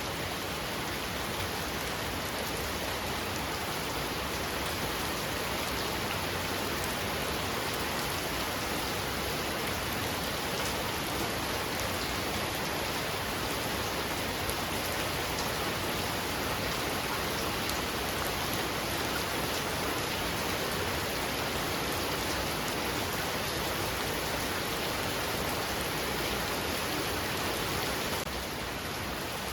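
Heavy rain falling steadily, a dense even hiss of drops on surfaces, easing a little near the end.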